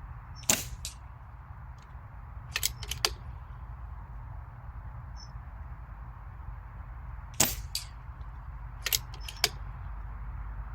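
BSA R12 pre-charged pneumatic air rifle firing twice, about seven seconds apart, each sharp crack followed by a softer click. About two seconds after each shot comes a quick run of two or three clicks as the rifle is cycled to load the next pellet.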